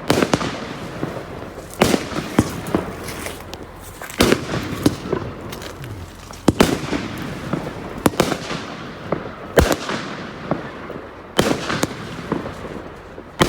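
Aerial fireworks bursting: a sharp bang every second or two, each trailed by crackling that fades.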